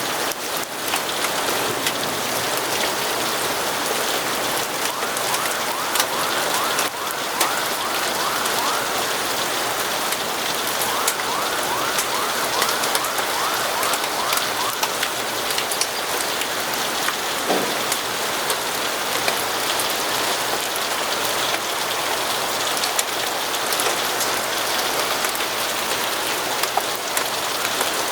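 Steady rain falling, with many small sharp ticks of drops throughout. Twice, for a few seconds each, a quick run of short repeated rising notes sounds under it.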